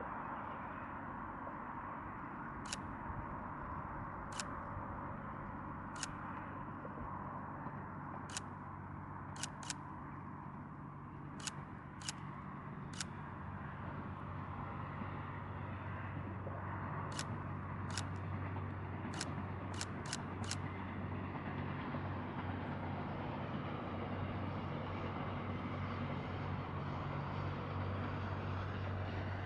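Camera shutters clicking, singly and in quick pairs, over a low steady hum that grows louder from about halfway as the Twilight Express Mizukaze train approaches.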